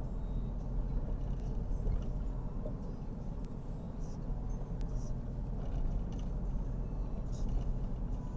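Steady engine hum and road rumble heard from inside a moving car.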